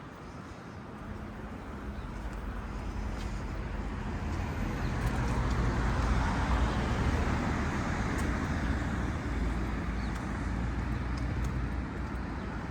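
Street traffic: a motor vehicle passes close by, its engine and tyre noise swelling over the first half and easing off somewhat toward the end, over a steady background of road traffic.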